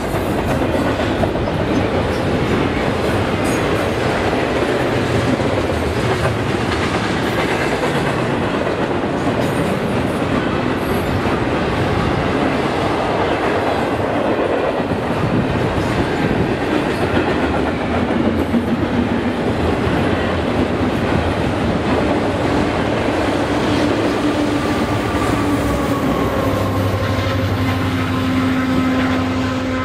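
Double-stack container freight train passing close by, its wheels rolling over the rails in a steady, loud noise. Steady humming tones join in over the last few seconds.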